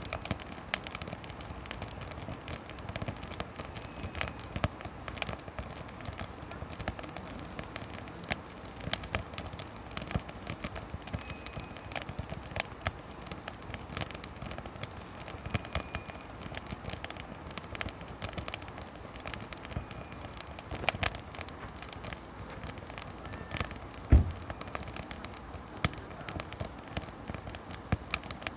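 Firewood burning in a campfire, crackling with a steady stream of small snaps and pops, and one louder pop late on.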